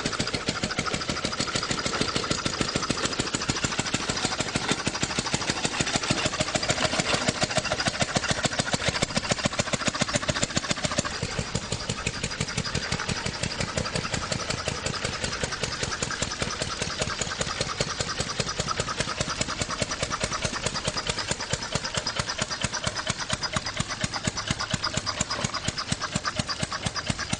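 Engine running steadily with a rapid, even beat of firing pulses.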